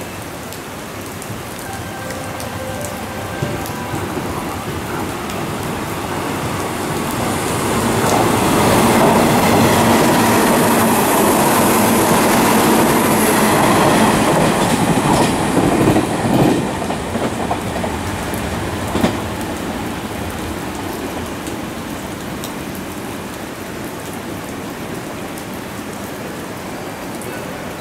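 Hanshin electric train running through the station at speed, its rumble and rushing wheel noise building up, at its loudest about eight to fifteen seconds in, then fading away. Steady hiss of heavy rain throughout.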